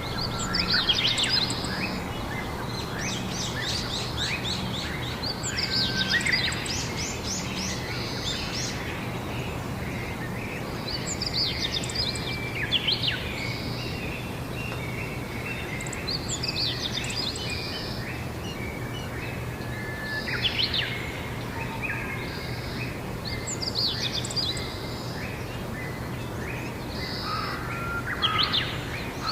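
Songbirds singing outdoors in short chirping phrases that come again every few seconds, over a steady low hum and background hiss.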